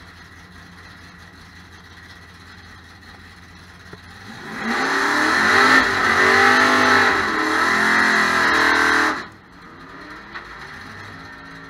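Drag race car's engine idling, then revved hard for about four and a half seconds with its pitch rising and falling, cutting back to idle about nine seconds in.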